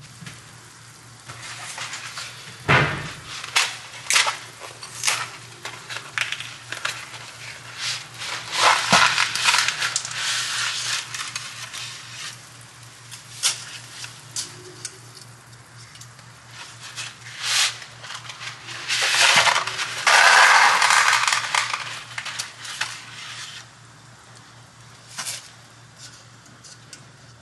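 Kitchen cooking sounds: dishes and utensils clattering in a string of sharp knocks and clicks, with a longer noisy stretch of handling about two-thirds of the way through, over a steady low hum.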